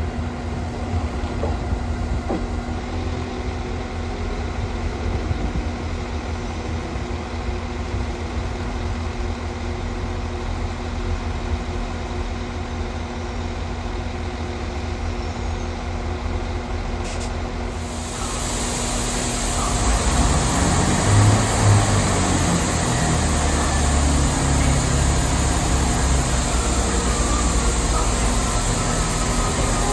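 Diesel train engine idling with a steady rumble and hum. About 18 seconds in, a loud steady hiss sets in and the engine rumble grows heavier and louder.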